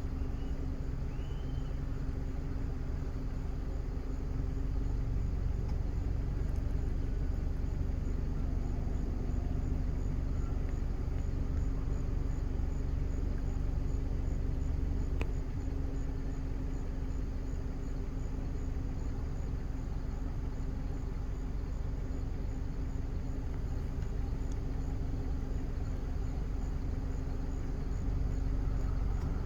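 Steady low vehicle rumble with a constant hum. A few short high chirps sound in the first second or so.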